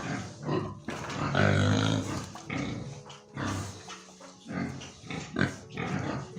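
Pig grunting: a run of short, irregular grunts, a few each second.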